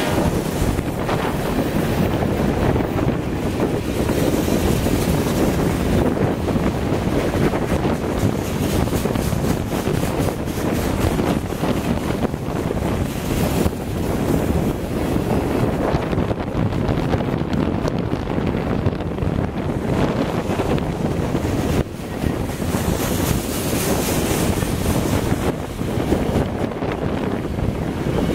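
Freight cars rolling past close by: a steady, loud rumble and rush of steel wheels on the rails, with faint clicks.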